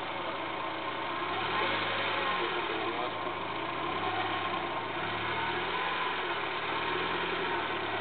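Engine of a heavy road-building machine running, its pitch rising and falling over and over from about a second and a half in as it works.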